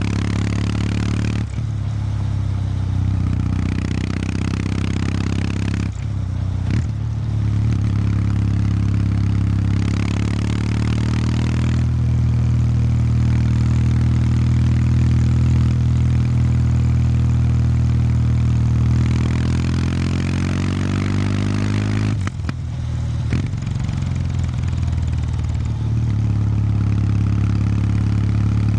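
Stock exhaust of a 2019 Kawasaki W800 Street's air-cooled parallel-twin engine, running under way at modest revs. The note drops out briefly a few times, and climbs in pitch about twenty seconds in before dropping again.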